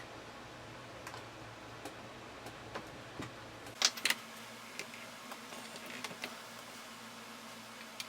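Scattered light clicks and taps of small hand work, with two sharper clicks about four seconds in, over a low steady hum.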